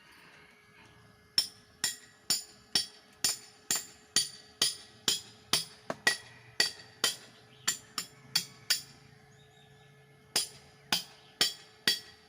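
Hammer driving climbing pegs into a tree trunk: a steady run of about seventeen sharp, ringing blows at roughly two a second, a pause, then four more blows. A faint steady hum runs underneath.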